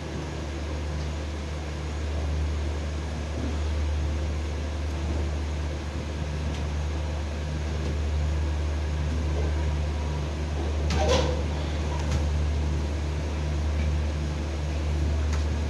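Steady low mechanical hum of a passenger train standing at a platform, with no rhythmic wheel clatter. About eleven seconds in there is a single brief clank with a short squeal that falls in pitch.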